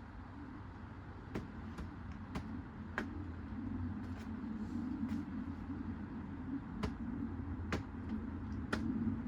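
Samsung washing machine running with a steady hum and low rumble that slowly grow louder, punctuated by about seven sharp knocks or clatters at irregular intervals.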